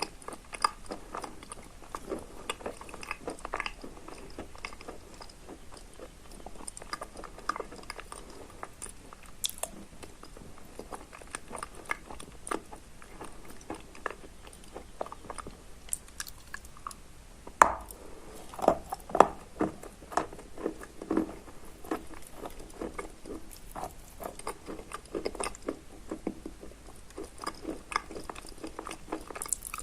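A person crunching and chewing soaked Barsuk chalk mixed with dry Lazurit chalk crumbs, close to the microphone: a steady run of wet crunches, with a burst of louder bites a little past halfway.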